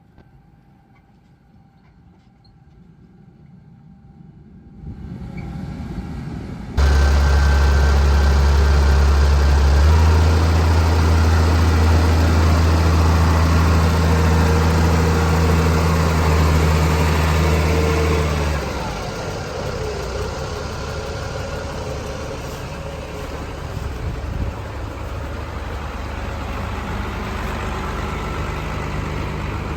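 Tractor engine running steadily, quiet at first and building. About seven seconds in it jumps sharply to a loud, deep, steady hum, then eases to a lower level after about eighteen seconds.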